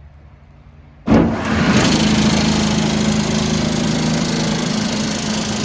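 Steel exhaust blower with a 1.5 hp explosion-proof three-phase motor switched on about a second in: a sudden start, then a steady rush of air with a low hum as it runs.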